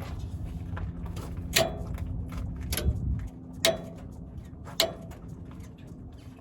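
Hollow metallic clanks with a short ringing tone, like a cowbell, from the rear suspension of a Ford E350 van: four knocks about a second apart over a low rumble. The owner suspects a loose brake caliper, a loose U-bolt or the leaf spring pack.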